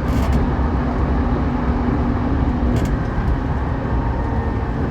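Saikyō Line commuter electric train running between stations: a steady low rumble with a humming tone that fades about two seconds in, a few brief clicks, and a higher tone coming in near the end.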